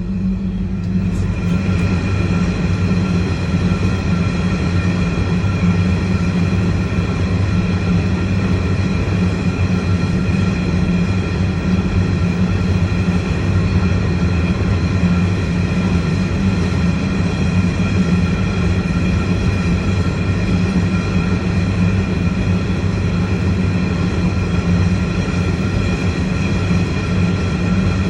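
A long train rolling past, a steady heavy rumble with a faint steady whine above it, unbroken throughout.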